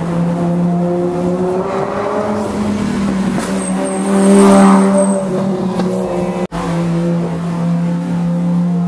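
Car engine running steadily while driving, heard from inside the cabin, swelling louder about four to five seconds in. There is a momentary drop-out about two-thirds of the way through, then the engine carries on.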